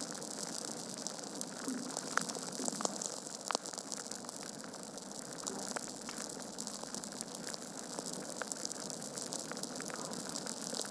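Wood fire in a fireplace crackling: a steady hiss of burning logs with scattered sharp crackles and the odd louder pop, one about three and a half seconds in.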